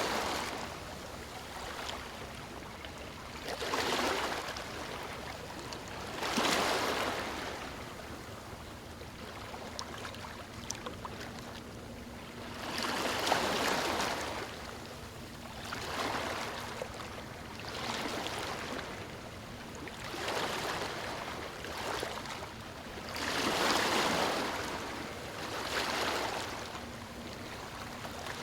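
Small waves breaking and washing over stones on a shore, a rushing hiss that swells and falls every few seconds.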